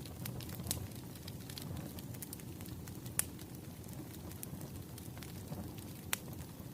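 Wood fire crackling: a steady low rumble of burning with frequent small pops and a few sharper snaps, the loudest about three seconds in and near the end.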